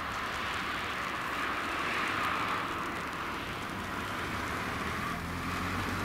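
An approaching train, not yet in view: a rushing rail noise that swells and fades, with the low drone of its engine or traction coming in near the end.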